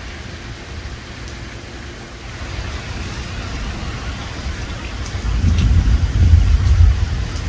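Heavy rain pouring down in a sudden thunderstorm downpour, a steady hiss of water. A deep low rumble builds through the second half and is loudest near the end.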